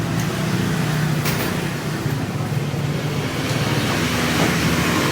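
Honda Vario Techno 110 scooter's single-cylinder four-stroke engine running steadily, getting a little louder and hissier over the last couple of seconds.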